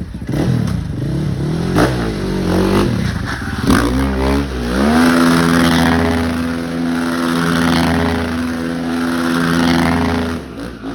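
Supermoto motorcycle engine revving, with a few quick blips that rise and fall in pitch. It then climbs and holds at high revs for about five seconds before dropping off near the end.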